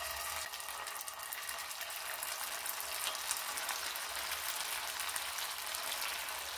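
Sabudana and potato patties shallow-frying in hot ghee in a nonstick pan: a steady sizzle with fine crackling as the patties are laid into the ghee.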